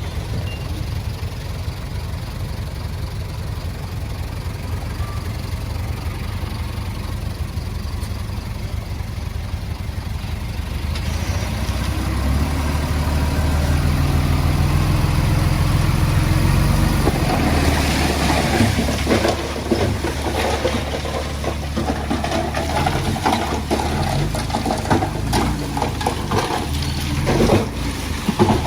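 Diesel engine of earthmoving machinery running steadily, working harder from about twelve seconds in. From about seventeen seconds in there is a dense clatter of knocks and rattles over the engine.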